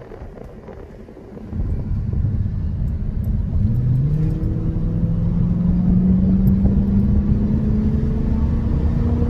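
Lexus LS400's V8 engine and road rumble heard from inside the cabin. About a second and a half in, the rumble gets suddenly louder as the car accelerates; the engine note climbs in pitch, then holds nearly steady at cruise.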